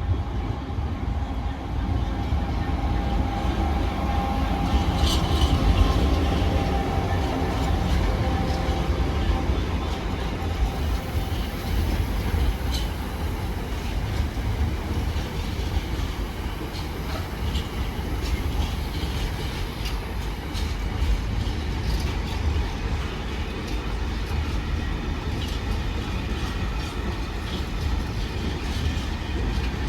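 A train moving through the station with a continuous low rumble and scattered clicks of wheels over rail joints; a faint whine fades away over the first ten seconds or so.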